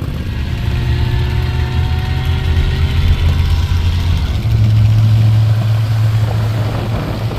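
Vehicle engine running steadily with a low hum, settling into a stronger, even drone a little over halfway through.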